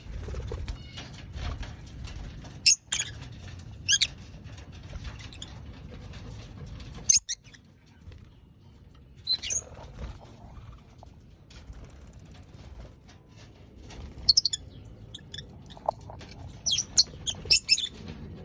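Lovebirds giving short, shrill chirps every few seconds, with a quick run of several near the end, over soft clicking from their beaks pecking and nibbling at food.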